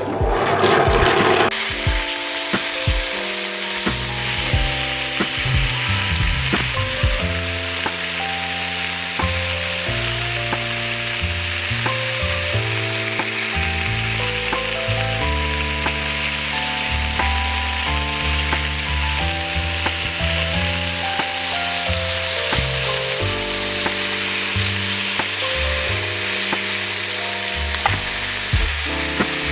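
Food frying in a pan with a steady sizzle that starts about a second in, over soft background music.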